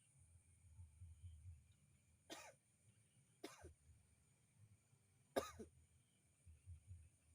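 Three short coughs, a little over a second and about two seconds apart, the third the loudest, against near silence.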